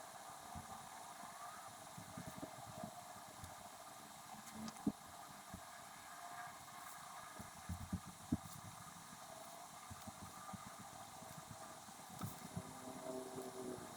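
Faint desk sounds of handwriting a letter: a steady hiss with scattered soft taps and knocks, the sharpest a few about five and eight seconds in.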